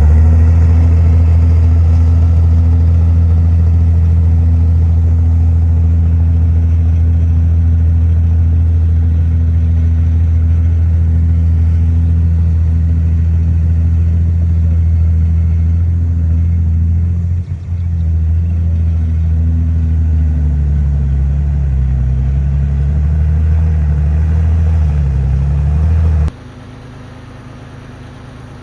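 Heavy diesel engine of earthmoving machinery running loud and steady at close range. The note dips briefly about two-thirds in and then wavers up and down as the load changes. Near the end it cuts off abruptly to a much quieter steady hum.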